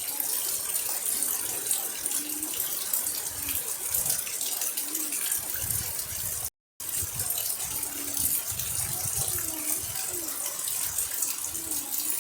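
Steady rain falling, an even hiss, with faint short low calls or voices in the background. The sound drops out completely for a fraction of a second about six and a half seconds in.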